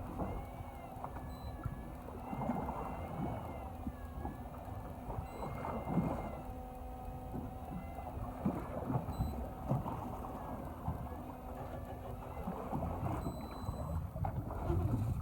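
Small fishing boat at sea: a steady engine hum with water and wind noise on the microphone, and a few scattered knocks. The hum drops out about twelve seconds in.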